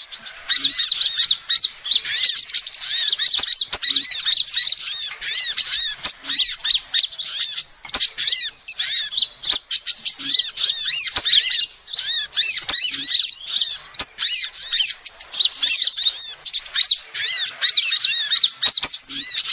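Female sunbird calling: a rapid, unbroken chatter of high, arched chirps, many overlapping, with scattered sharp clicks.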